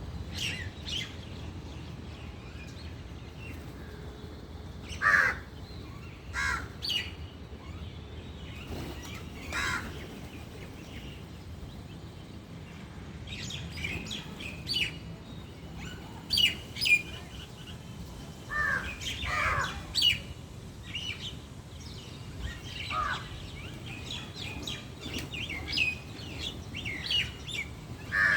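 Several birds calling and chirping, in short scattered calls with louder bursts now and then, over a steady low background rumble.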